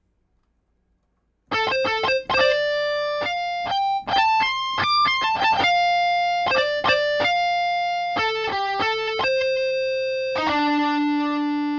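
Overdrive electric guitar preset of the Bismark bs-16i sample-player app, played from a keyboard as a single-note melody of short and held notes. It starts about a second and a half in.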